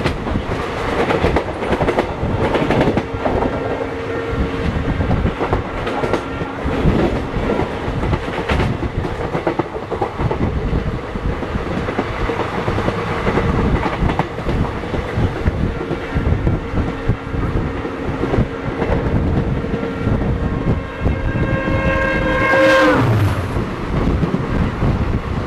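Express train running fast, with wheels clicking over rail joints. A horn sounds briefly a few seconds in, then sounds in one long blast from about the middle that bends down in pitch and stops a couple of seconds before the end.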